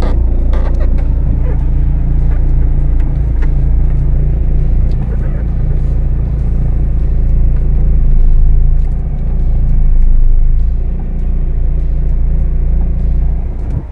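Renault Duster's engine running at idle speed in first gear, the clutch partly released and no accelerator, as the car creeps forward. It is a steady low hum with road rumble, heard from inside the cabin, and it swells briefly twice in the second half.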